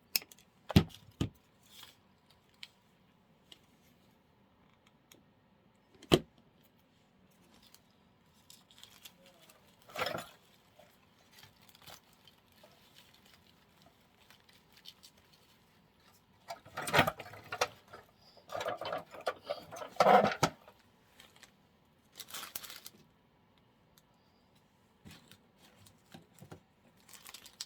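Hands at craft work: a few sharp clicks, then several bursts of rustling and rattling as artificial floral picks and stems are handled.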